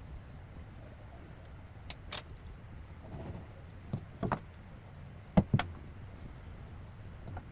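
Sharp metallic clinks and clanks of hand tools such as pliers and an adjustable wrench working on faucet and supply-hose fittings, coming in three quick pairs, the loudest about two-thirds of the way through.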